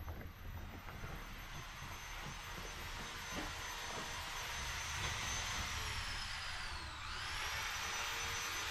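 A steady rushing hiss that slowly grows louder, with a thin whistle sweeping down and back up about seven seconds in.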